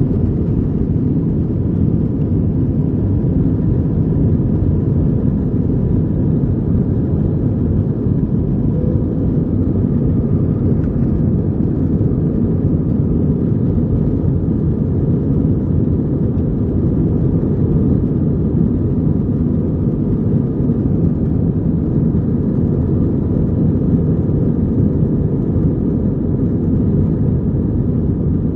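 Steady low rumble inside the passenger cabin of an Airbus A321 in flight: engine and airflow noise, with a faint steady hum above it.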